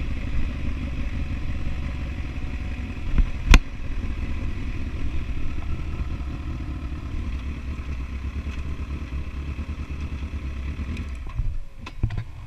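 Kawasaki Ninja ZX-10R's inline-four engine idling with a steady, fast-pulsing low rumble, with one sharp click about three and a half seconds in. The engine sound drops away about a second before the end, followed by a few knocks.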